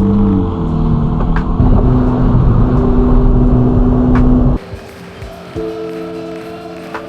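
Ferrari Roma's twin-turbo V8 running loud under a music bed, which cuts off suddenly about four and a half seconds in, leaving quieter steady synthesizer tones.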